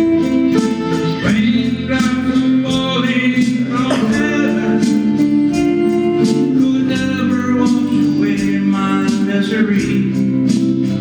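Guitar playing a song with a man singing over it, the voice coming in about a second in.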